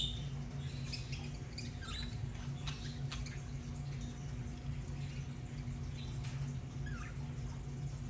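Budgerigars chattering softly: scattered faint chirps and small clicks, a couple of short rising chirps, over a steady low hum.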